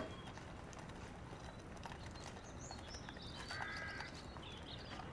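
Faint outdoor ambience with scattered high bird chirps and a short call about three and a half seconds in.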